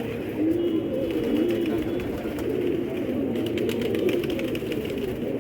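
A flock of domestic pigeons cooing together in a steady, overlapping chorus, with light clicks in the second half.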